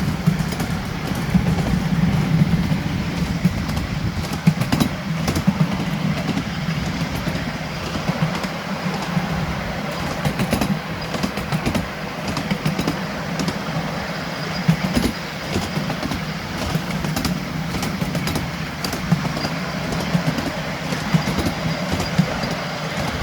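Miniature railway train running steadily along the track, heard from on board: a constant low hum with scattered irregular clicks and knocks.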